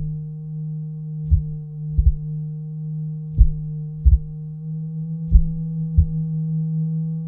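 A steady low electronic drone with soft low thumps in pairs, each pair about two seconds after the last, laid over the webcam footage as a background track.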